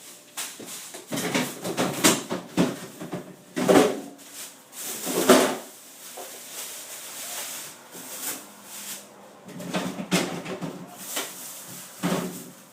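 Refrigerator contents being cleared out: irregular knocks and clatters of drawers, shelves and containers being handled, with a few louder rustling, scraping bursts.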